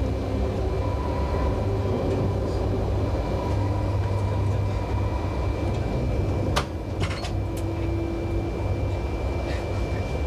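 Steady low rumble and hum inside the driver's cab of a Shinkansen test train running slowly through a tunnel. A sharp click comes about six and a half seconds in, followed by a few lighter clicks.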